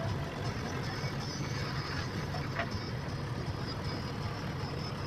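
Tractor engine idling steadily with an even low hum.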